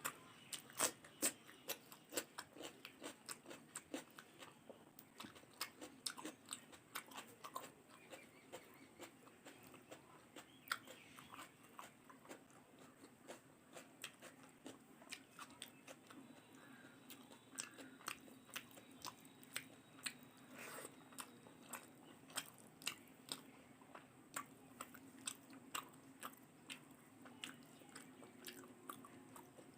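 A person chewing and biting food close to the microphone: a steady run of small sharp crunches and wet mouth clicks, about two to three a second, a little louder in the first couple of seconds.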